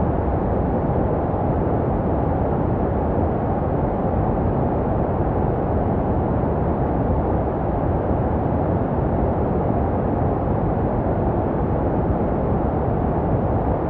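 Steady, unchanging baby-sleep white noise with a deep, muffled character: most of it is low and little is treble. It is made to resemble the sound a baby hears in the womb.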